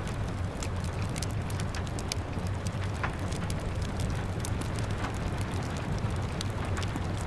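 Wood fire crackling, with frequent small sharp pops at irregular intervals, over the steady patter of rain and a low rumble.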